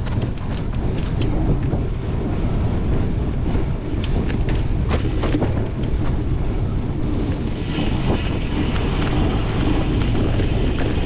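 Wind buffeting the microphone of a rider's camera on a cyclocross bike at speed, a constant heavy rumble, with scattered sharp clicks and rattles from the bike on rough ground. The hiss gets brighter about seven and a half seconds in.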